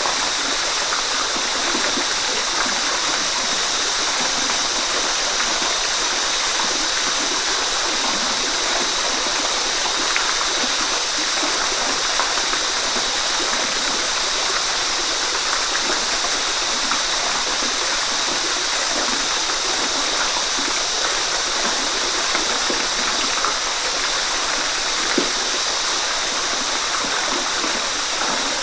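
Waterfall running steadily: a constant rushing hiss of falling water, with small splashes and gurgles throughout and one brief louder splash near the end.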